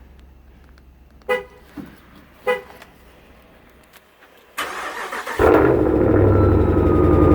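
Two short horn chirps from a 2017 Dodge Ram 1500. About a second later the starter cranks briefly and the 5.7 Hemi V8 fires on a cold start, then settles into loud, steady running.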